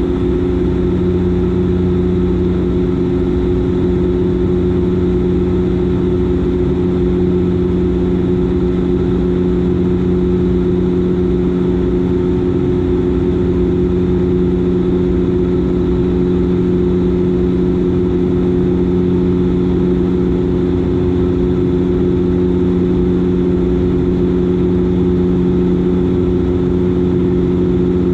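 Dash 8 Q400's Pratt & Whitney PW150A turboprop engine and propeller droning steadily in flight, a constant hum of several low tones over a rushing hiss.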